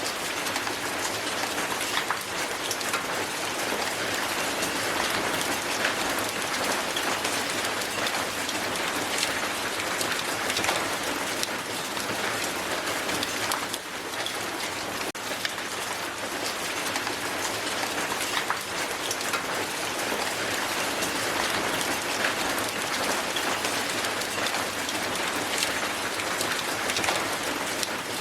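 Heavy hail falling steadily on the ground: a dense, unbroken patter of countless small ice impacts.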